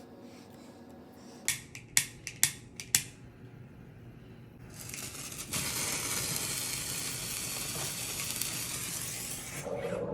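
Four sharp clicks, then a sparkler catching about halfway through and fizzing with a steady crackling hiss for about five seconds before it stops near the end.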